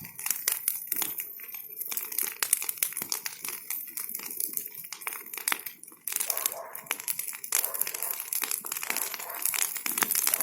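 Bonfire of branches burning with dense, irregular crackling and popping, easing briefly around the middle before picking up again.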